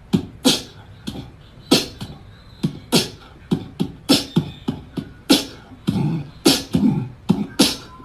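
A run of sharp, clicky percussive hits in an uneven rhythm, about two a second, with fuller, lower hits in the later part.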